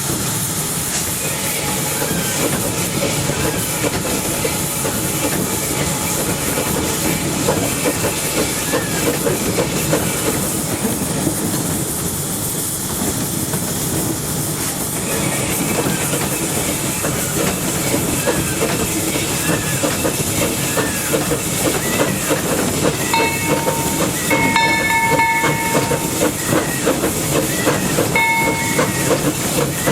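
Narrow-gauge steam locomotive running, heard from its running board: a steady hiss of steam over a close, even clatter of the wheels and running gear. Near the end, high ringing tones sound on and off for several seconds.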